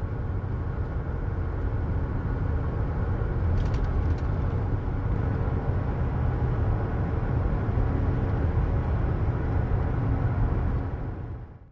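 Steady low rumble of a vehicle engine running, with two short clicks a little under four seconds in, fading out near the end.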